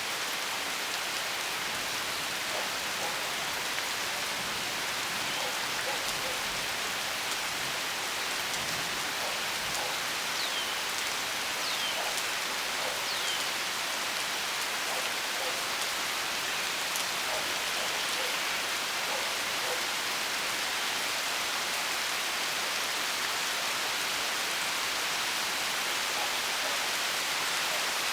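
Steady rain falling, an even hiss of drops on surfaces. A few short high chirps, each falling in pitch, come three times a little before the middle.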